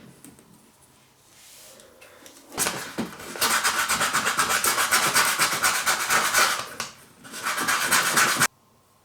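Hand-worked abrasive rubbing in fast, even back-and-forth strokes, loud from about two and a half seconds in, briefly easing off near seven seconds and cutting off suddenly just before the end.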